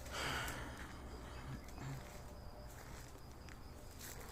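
Outdoor rural background: a steady low rumble like wind on the microphone and faint insects chirping, with a brief rustling rush at the start.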